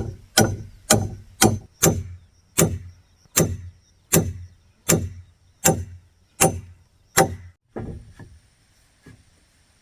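A hand tool striking wood over and over in steady, evenly paced blows, a little more than one a second, each with a short ring. It stops about seven and a half seconds in, after two lighter knocks.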